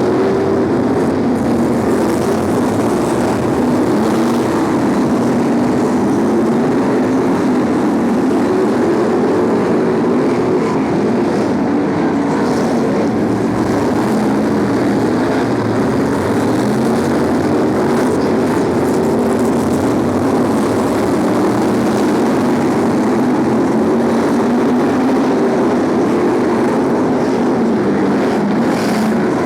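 BriSCA F1 stock cars' V8 engines racing as a pack, loud and unbroken, the pitch rising and falling as the cars accelerate and lift off around the oval.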